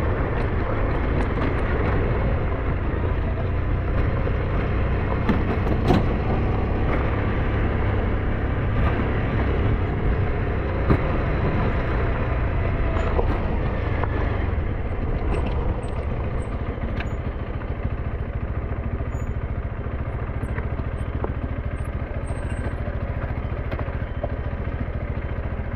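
SYM NHT 200 motorcycle running steadily under way, its engine mixed with road noise. A couple of sharp knocks come about six and eleven seconds in, and the sound drops slightly in level about two-thirds of the way through.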